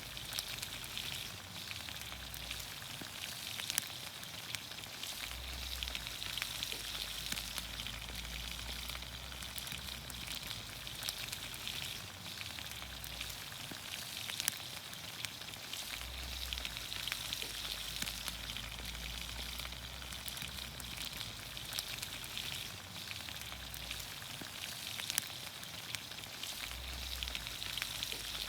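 Vegetables in olive oil sizzling steadily in a pan over a campfire, with frequent small pops and crackles.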